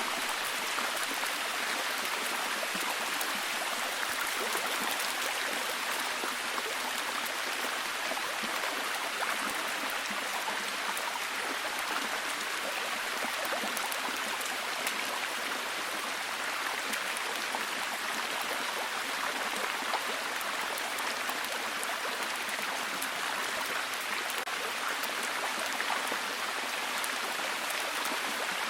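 Steady heavy rain, a dense even hiss of drops with fine patter throughout and no thunder.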